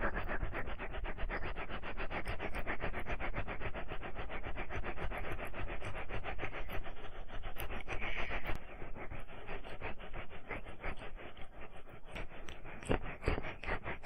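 Ear-cleaning ASMR scratching and rubbing close to the microphone: fast, even strokes, about ten a second, becoming less regular after about eight seconds.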